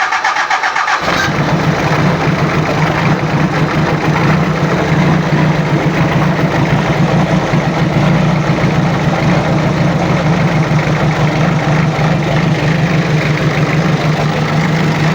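Toyota 3L 2.8-litre four-cylinder diesel engine being started: a brief crank, then it catches about a second in and runs steadily at idle.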